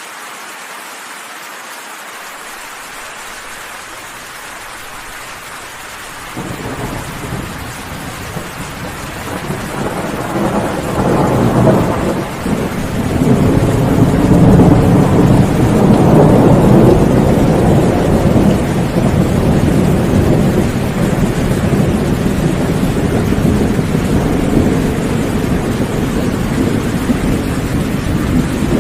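Steady rain with a long roll of thunder. The thunder starts as a low rumble about six seconds in, swells to its loudest in the middle and slowly dies away under the rain.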